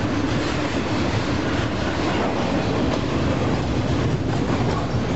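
Double-stack container train's loaded well cars rolling past on the adjacent track: a steady rumble of steel wheels on the rails.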